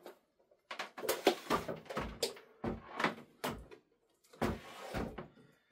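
Irregular knocks and clatter, about a dozen sharp strokes over a few seconds, from cables and plugs being handled and set down on the amplifier's hard casing.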